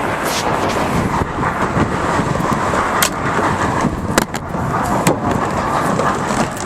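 Train riding along the track, heard from aboard: a loud, steady rumble and rush with a few sharp clicks.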